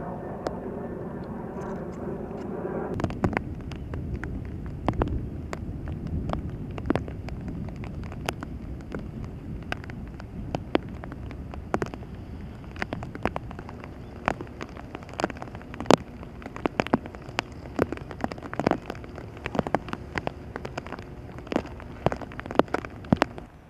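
Rain falling, with irregular sharp taps of large drops landing close by, several each second. For about the first three seconds a steady engine drone sounds over it, then cuts off abruptly.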